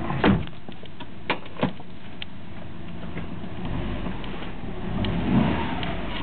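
2008 Subaru Impreza WRX STI's flat-four boxer engine and exhaust running steadily, with a few sharp clicks in the first two seconds and a brief swell in level about five seconds in.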